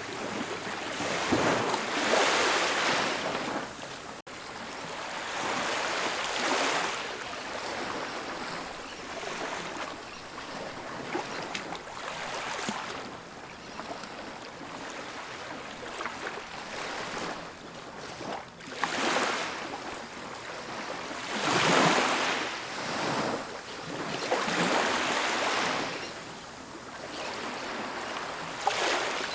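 Ocean waves breaking and washing up a sandy beach, surging and falling back every few seconds. The strongest surges come about two seconds in and around twenty-two seconds.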